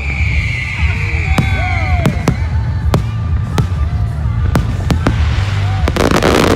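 Fireworks going off: sharp bangs of bursting shells about twice a second, a falling whistle in the first two seconds, and a dense crackling burst near the end.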